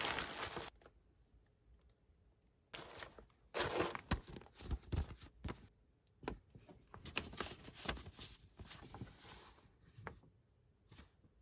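Packaging being torn open and crinkled by hand, in irregular bursts with short quiet gaps between them.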